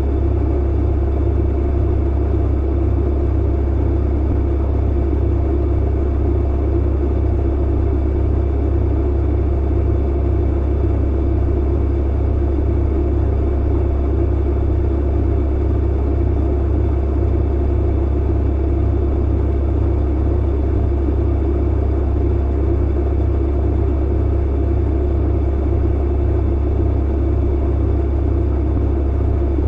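Clothes dryer running with its drum tumbling: a steady low rumble and hum.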